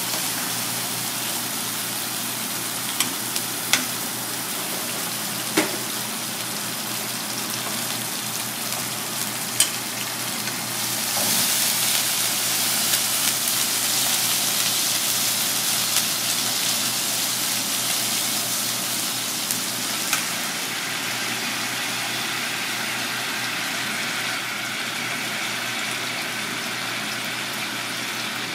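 Chopped aromatics sizzling in oil in a cast-iron wok over a gas flame, with a few sharp clicks of wooden chopsticks against the pan in the first ten seconds. The sizzle grows louder about eleven seconds in.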